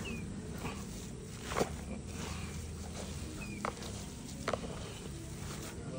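Outdoor background with two short, high, falling bird chirps, one at the start and one about three and a half seconds in, and a few sharp clicks, the loudest about a second and a half in.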